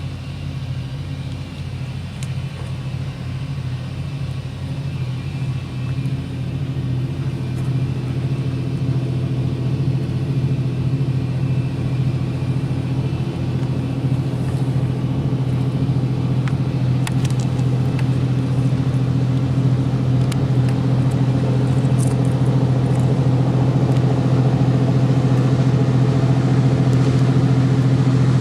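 A motor running at a steady, even pitch, its hum growing slowly louder through the whole stretch, with a few faint clicks.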